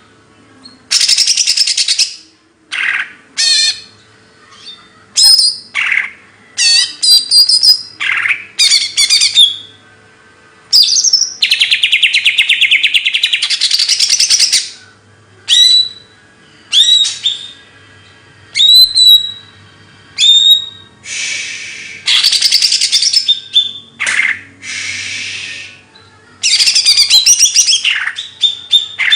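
A songbird singing in loud bursts of rapid trills, one to three seconds long, alternating with short sharp rising chirps, with brief pauses between phrases.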